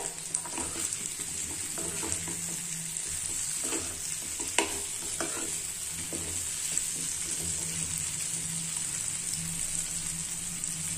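Lotus stem pieces frying in oil and spice masala in a kadai with a steady sizzle. A steel spatula stirs and scrapes the pan, giving a few clicks and knocks in the first half.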